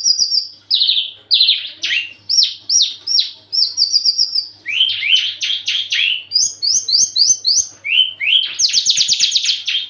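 Branjangan (Javan bush lark) singing without a break: quick phrases of short, repeated down-slurred notes, speeding into a fast trill near the end. This is the full song of a bird in peak breeding condition, courting.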